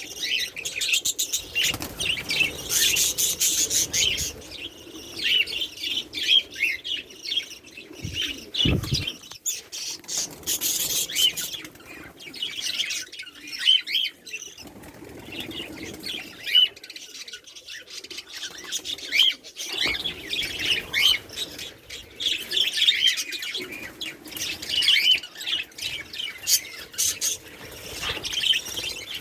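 A flock of caged pet lovebirds chirping and twittering constantly in high, rapid calls, with wings fluttering. There is a single low thump about eight seconds in.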